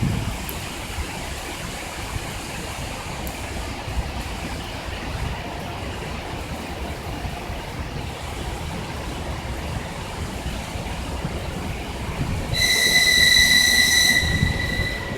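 ED9M electric multiple-unit train rolling past with a steady rumble and hiss in rain. Near the end a loud, shrill, steady squeal from the train lasts about two seconds, then fades.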